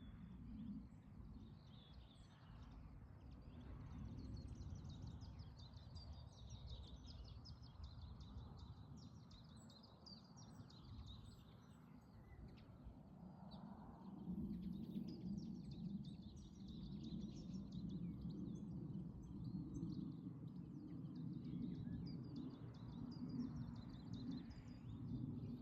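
Small birds chirping and twittering over a steady low rumble that grows louder about halfway through.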